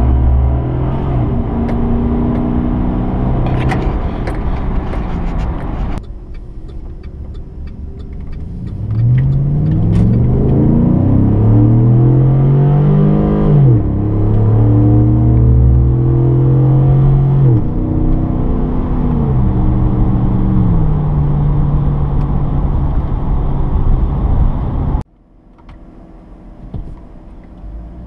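Chevrolet Silverado 5.3L V8 exhaust under acceleration. The engine note rises steeply, then steps down about three times as the automatic transmission upshifts. Shorter passages of steady engine running come before and after, with abrupt changes where the clips are cut together.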